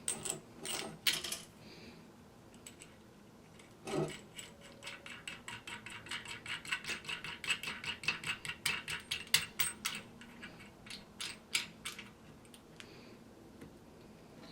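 Toilet tank bolt hardware being fitted and tightened: a few light metal clinks and a knock, then runs of rapid, even clicks, about six a second, from a ratcheting tool.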